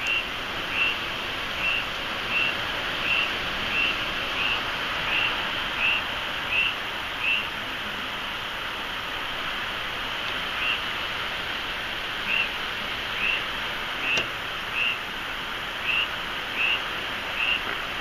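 Steady hurricane rain and wind noise, with a short, high chirp repeating about every three-quarters of a second that pauses for a few seconds midway.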